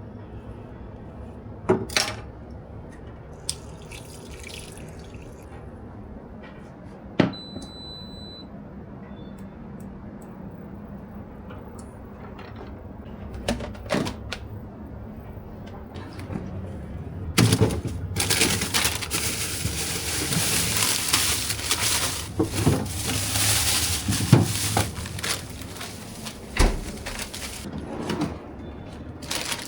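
A tap runs into a sink for about eight seconds in the second half, preceded and followed by scattered clicks and knocks of things being handled.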